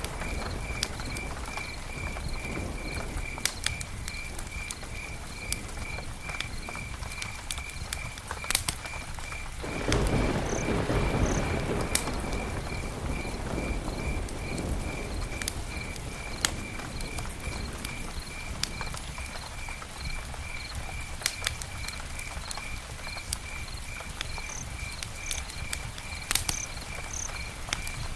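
Campfire crackling, with sharp pops scattered irregularly and a louder rush of hiss for a couple of seconds about ten seconds in. Under it a high chirping call repeats steadily, about two or three times a second.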